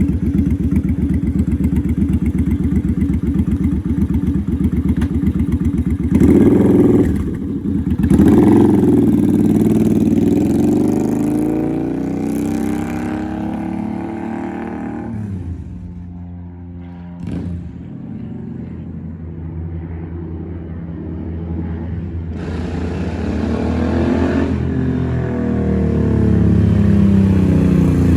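Suzuki Boulevard C50's V-twin engine through a full Cobra slash-cut exhaust, loud. It runs steadily at first and is revved up hard about six seconds in, with a brief drop, then its pitch winds down over several seconds. It builds up again in revs toward the end.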